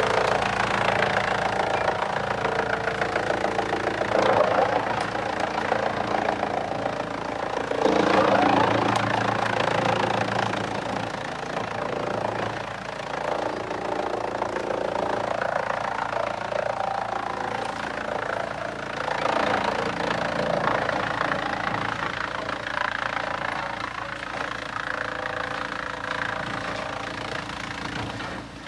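Heavy engine-driven machinery running without a break, its sound swelling and easing a few times as the load changes.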